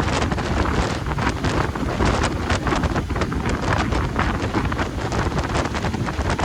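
Strong wind buffeting the phone's microphone, a continuous rumbling roar with rapid gusty crackles, which may cover the sound of the Baltic Sea's waves beneath it.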